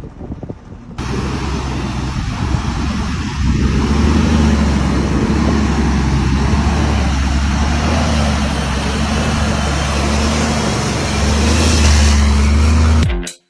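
Armoured military truck on the move: a steady engine drone under road and wind noise. The sound gets louder about a second in and again near the end, then cuts off abruptly.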